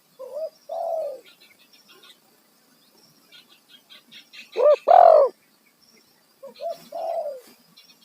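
Spotted dove cooing: three phrases, each one or two short notes followed by a longer falling coo, the middle phrase the loudest. A small bird's fast, high chatter runs between the phrases.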